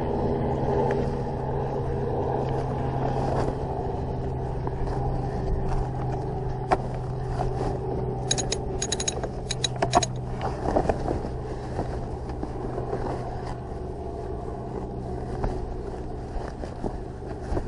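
A steady engine hum that slowly fades, with a quick run of sharp clicks or rattles about halfway through.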